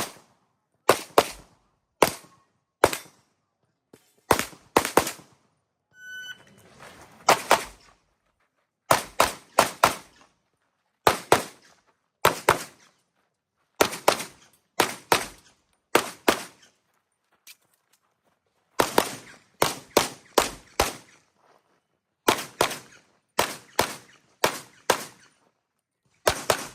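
Handgun shots fired on IPSC practical shooting stages, mostly in quick pairs and short strings with pauses between. A short beep sounds about six seconds in.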